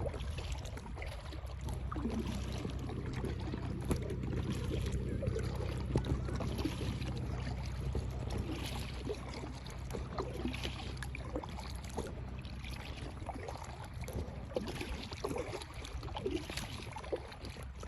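Birds calling here and there over a steady low rumble.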